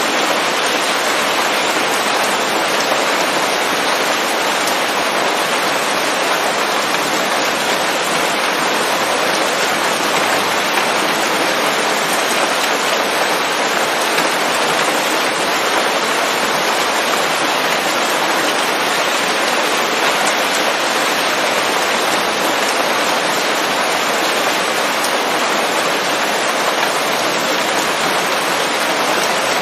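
Steady rain falling on forest leaves: an even, unbroken hiss of drops.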